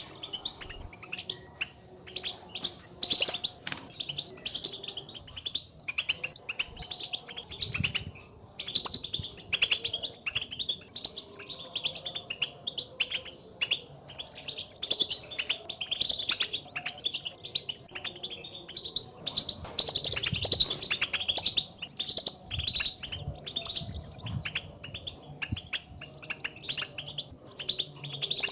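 European goldfinches giving their rapid twittering contact calls, a dense, continuous run of short chirps that gets busier about two-thirds of the way through. This is the calling that goldfinches use to signal each other's presence, which sets a lone caged goldfinch off singing.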